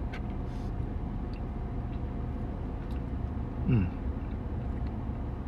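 A steady low rumble in the background. About three and a half seconds in, a man gives a short 'mm' that falls in pitch as he tastes a spoonful of ice cream.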